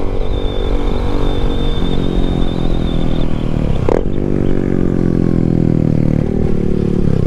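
Yamaha MT-07's parallel-twin engine running under way, with wind rumble. About four seconds in the note breaks sharply, as at a gear change, and then the revs fall slowly.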